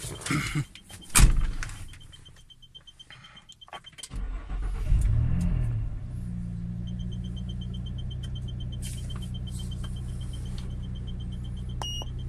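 Car engine cranking and catching about four seconds in, then idling evenly, with the throttle-body connector just plugged back in. Before it a few knocks and a loud thump about a second in, and a fast, steady dashboard warning chime beeps over the idle.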